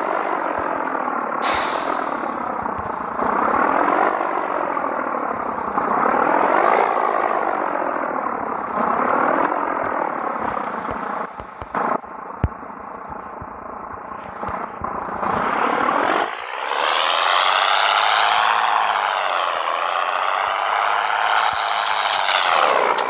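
Scania 113 truck's diesel engine under load, its pitch climbing and then dropping again and again, as at gear changes. It grows louder and fuller about two-thirds of the way in.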